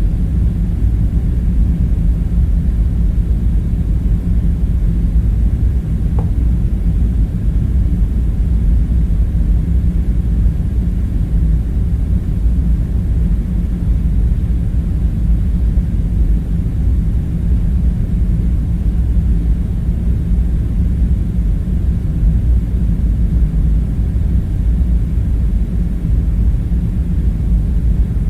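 Steady, unbroken low rumble with a faint hum in it: an ambience bed of background drone. One brief faint tone sounds about six seconds in.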